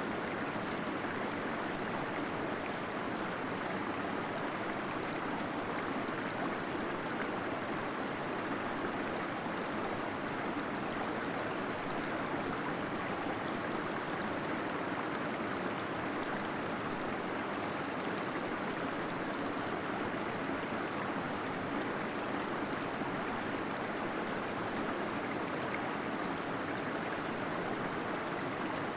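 Small waterfall in a cave splashing and gurgling steadily, an even rush of flowing water with no breaks.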